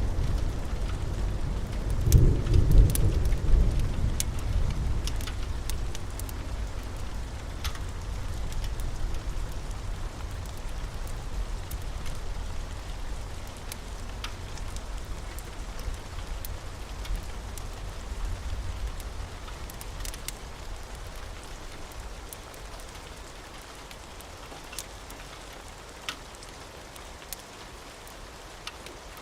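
Steady rain with a roll of thunder that peaks about two seconds in and slowly dies away. A few scattered sharp crackles from a wood fire.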